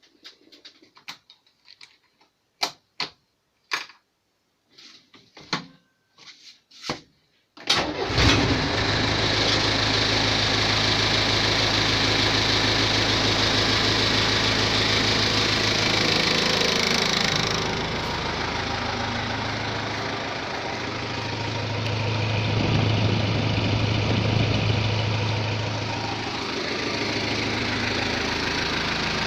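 A few scattered clicks and knocks, then the Mercedes-Benz 608D's OM314 3.8-litre four-cylinder diesel starts from cold about eight seconds in and runs on with a steady diesel clatter.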